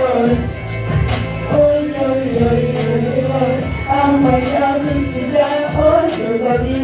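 Live singing of a pop song's refrain over a backing track with a steady beat, the sung melody rising and falling.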